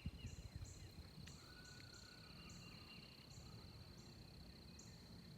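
Faint outdoor ambience of insects: a steady high-pitched drone with short high chirps repeating about twice a second, over a low rumble of wind or background noise.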